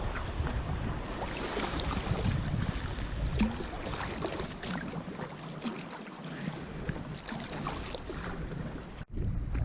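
Sea kayak paddling on open water: paddle splashes and water washing against the hull, with wind buffeting the microphone. The sound cuts out for an instant near the end.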